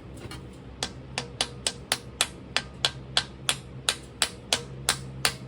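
Sharp taps, about three a second and some fifteen in all, rapping a casting pattern to loosen it from packed mold sand so it can be lifted out; it is sticking.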